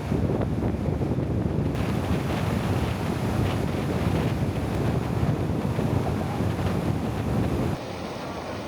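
Wind buffeting the microphone, a loud, uneven low rumble that drops away abruptly near the end.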